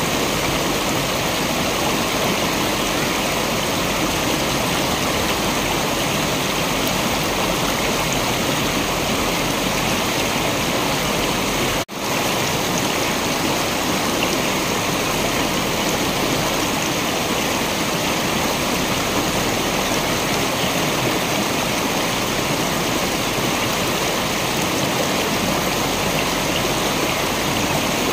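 Waterfall water rushing steadily, an even, full hiss. It drops out for an instant about twelve seconds in, then carries straight on.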